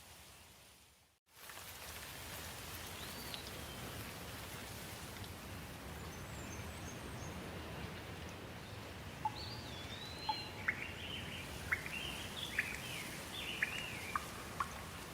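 Steady rain hiss that drops out briefly about a second in and comes back. Birds call over it: a single whistled call a few seconds in, then a busy run of chirps and short sharp notes from about nine seconds on.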